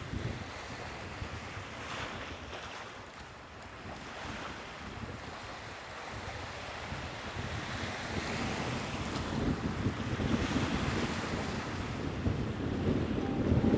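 Sea waves washing on the shore, with wind buffeting the microphone in low rumbling gusts. The surf grows louder through the second half.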